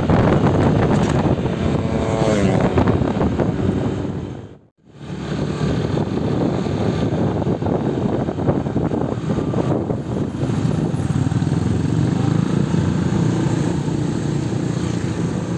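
A motor vehicle engine running steadily under a loud rushing noise. It breaks off briefly a little under five seconds in, then carries on.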